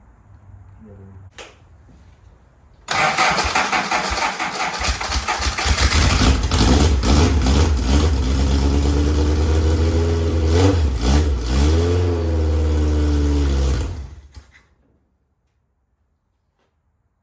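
The Van Diemen Formula 2000 race car's 2-litre inline-four engine runs loud and rough, coming back to life after years in storage. It is blipped up in revs a couple of times before it shuts off about three-quarters of the way through.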